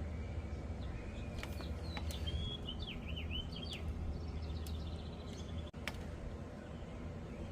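Small birds chirping in quick, short calls over a steady low hum, with a few sharp clicks scattered through.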